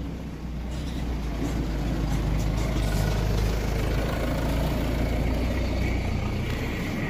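Mahindra Scorpio SUV's engine idling steadily.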